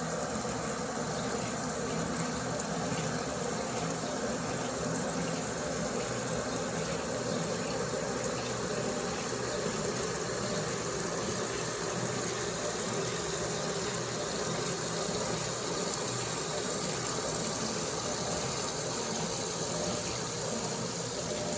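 Brastemp Eggo 1 kg mini washing machine taking in water for its second rinse: a steady rush of water pouring into the tub.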